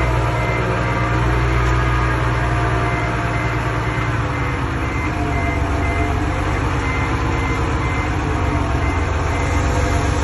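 Diesel engine of a Komatsu D20P bulldozer running steadily under work, its pitch sagging slightly and recovering, while a reversing alarm beeps rapidly, clearest in the first half and again near the end.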